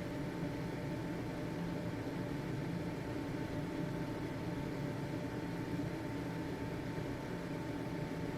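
Household ventilation fan running steadily: an even whoosh of air with a constant motor hum and a faint high steady tone.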